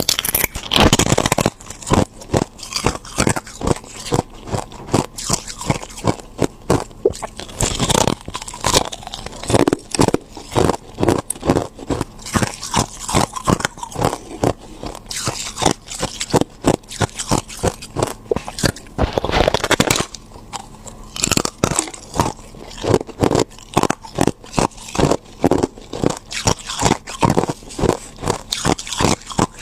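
Ice being bitten and chewed close to the microphone: a fast, uneven run of sharp crunches, with louder stretches of crunching about a second in, around eight seconds and near twenty seconds.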